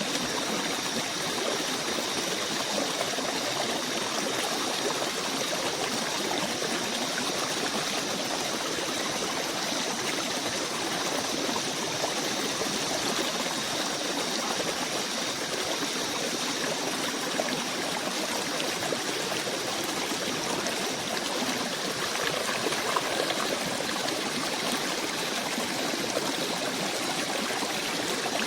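A stream running steadily, with an even rushing sound. A faint, steady high-pitched tone sits above it, and its upper part fades out about two-thirds of the way through.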